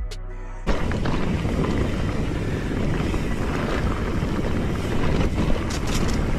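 Music cuts off under a second in, giving way to a steady, loud rush of wind buffeting the microphone outdoors.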